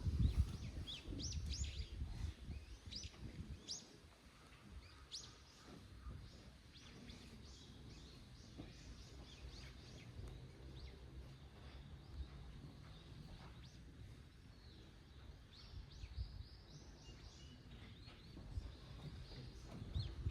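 Small birds chirping: many short, high, falling calls, thickest in the first several seconds and sparser after, over a steady low outdoor rumble.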